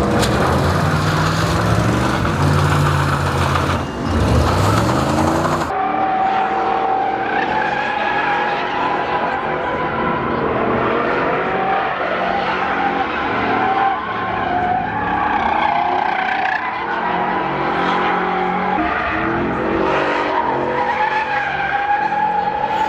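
Truck engine revving hard, then, after an abrupt change about six seconds in, tyres squealing in a long, wavering screech over the engine during a burnout.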